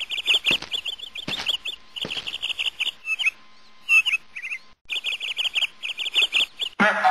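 Birds chirping in fast repeated trills that thin out midway and break off briefly before starting again. There are a few faint knocks in the first two seconds.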